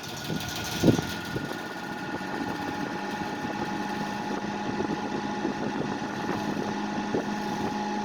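1950s Dominion 20-inch box fan spinning up to high speed: a steady motor hum that grows gradually louder, with light rattling and one sharp knock about a second in. The front grille rattles because one of its clamps is broken.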